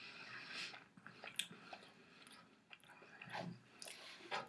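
Faint chewing and biting of a toasted-bread Nutella sandwich, with scattered small crunches of toast and mouth clicks.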